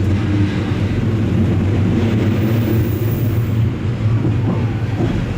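Odakyu electric commuter train running on the rails, heard from inside the front car: a steady low rumble of wheels and traction motors, with a faint gliding whine near the end.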